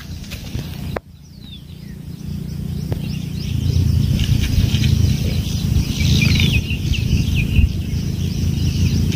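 Birds chirping in short, pitch-gliding calls over a low outdoor rumble that grows louder after the first few seconds.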